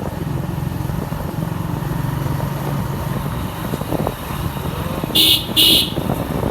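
Motorcycle engine running steadily while riding, with a vehicle horn beeping twice in quick short blasts near the end.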